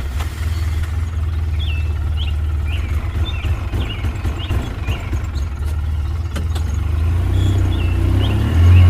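Small motor running with a steady low hum, growing louder and rising in pitch near the end, with short high chirps repeating about twice a second.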